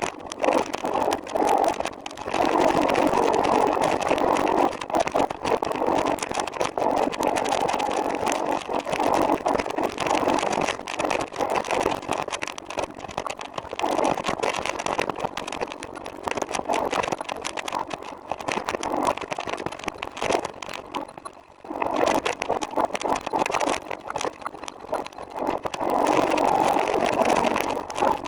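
Continuous rattling and rumbling ride noise from a recumbent trike rolling over the path. It dips briefly about 21 seconds in.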